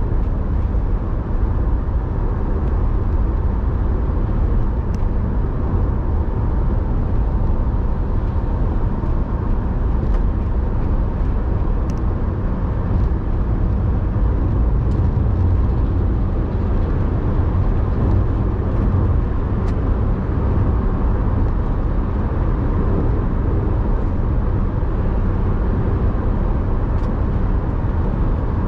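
A car being driven: a steady, unbroken low rumble of engine and road noise, with a few faint ticks.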